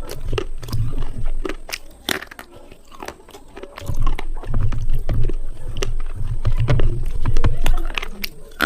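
Slate pencils being bitten and chewed close to the microphone: dense, sharp crunching with dull low thuds from the jaw. It comes in two spells, one at the start and a longer one from about four seconds in, with only scattered crunches between.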